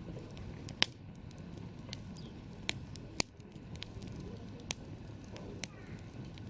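Wood campfire crackling over a steady low rush of burning, with about five sharp pops; the loudest comes about a second in and another just after three seconds.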